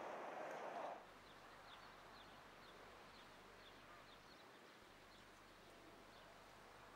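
Faint outdoor ambience with a small bird chirping over and over in short, high notes. For the first second a louder steady rushing noise runs, then cuts off suddenly.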